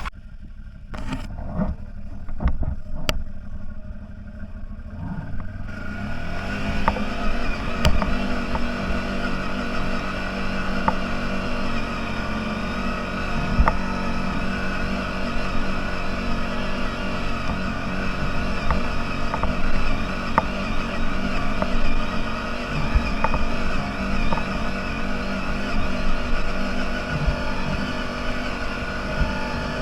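Low rumble with a few knocks, then about six seconds in an off-road vehicle's engine comes up, rising in pitch, and keeps running steadily under way, with occasional light clicks.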